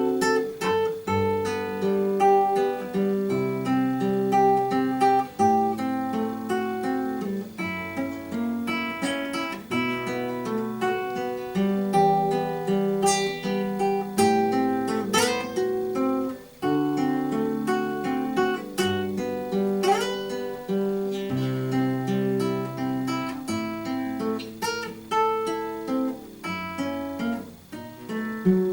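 Solo acoustic guitar played fingerstyle: a plucked melody over bass notes. A few quick rising finger slides squeak along the strings.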